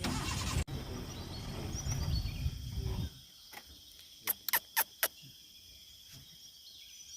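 Steady high chirring of insects, crickets or cicadas, running throughout. A low rumble fills the first three seconds, then drops away, and four sharp clicks come in quick succession about halfway through.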